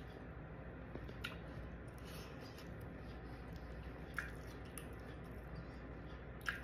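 A person chewing a mouthful of shrimp and broccoli, with wet mouth sounds. A plastic fork clicks against a foam takeout container three times as it digs into the food.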